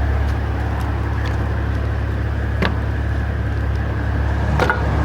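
Semi truck's diesel engine running with a steady low rumble, and a sharp click about two and a half seconds in and another near the end.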